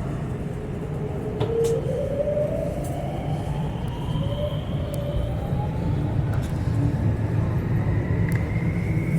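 Electric train accelerating: a steady rumble with motor whine that climbs slowly in pitch, with a few faint clicks.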